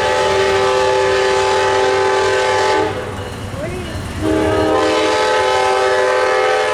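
Amtrak GE P42 locomotive's horn blowing a long blast for a grade crossing. The blast cuts off just under three seconds in, and a second long blast starts about a second and a half later.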